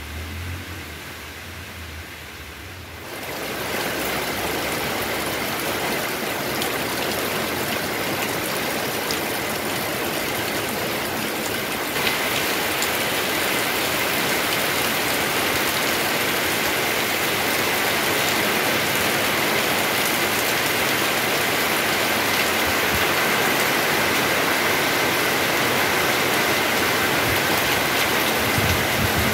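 Heavy rain pouring down in a steady, dense hiss. It sets in suddenly about three seconds in and grows heavier and brighter at about twelve seconds.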